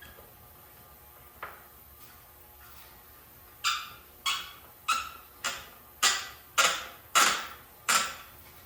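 A run of about nine sharp metallic taps, roughly two a second, each ringing briefly, from hand work on metal parts of a Clinton small engine under rebuild; before them only a few faint clicks.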